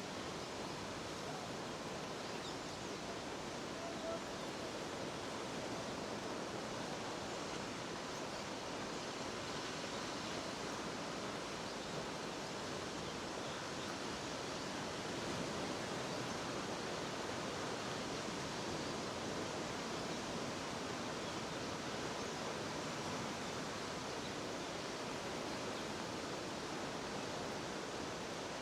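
Jeongbang Falls, a coastal waterfall, with a steady, even rush of falling water.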